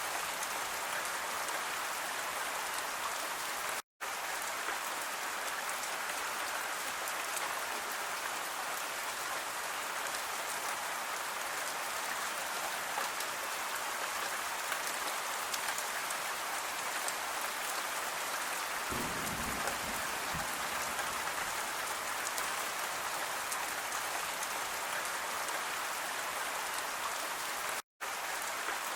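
Steady rain falling, an even hiss of many drops. About two-thirds of the way through there is a brief low rumble, and twice the sound cuts out for an instant.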